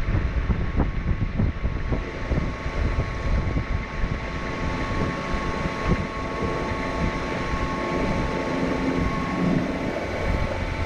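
Electric outboard boat running: wind buffeting the microphone and the rush of the hull through the water, over a steady high whine from the Momentum M10 electric outboard motor.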